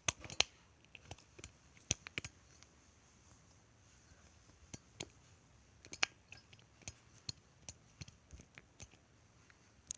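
Light clicks and taps at irregular intervals, a few every second, from soap and shampoo bottles and a mixing bowl being handled.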